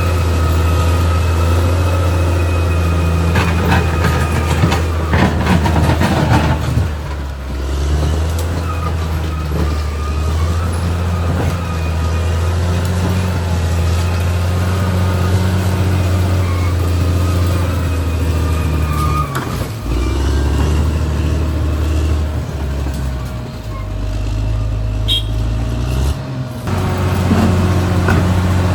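Caterpillar D6R XL bulldozer's diesel engine running steadily at working revs, with a run of sharp metallic clanks about 3 to 6 seconds in. The engine note dips and shifts a few times in the second half.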